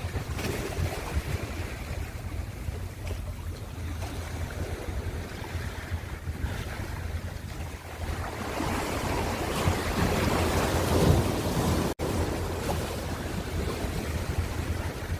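Ocean surf: waves washing in over a steady low rumble. About halfway through, a wave swells louder for a few seconds and falls away, and soon after the sound drops out for an instant.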